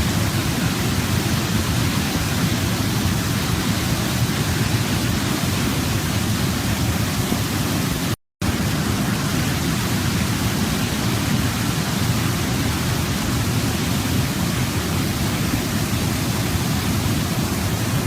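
Waterfall: a steady rush of falling water, even and unchanging, with a split-second gap of silence about eight seconds in.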